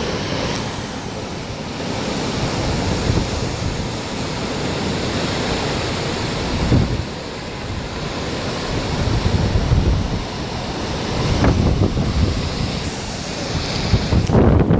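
Hurricane-force wind rushing steadily, with gusts buffeting the microphone in low rumbles that swell and fade several times.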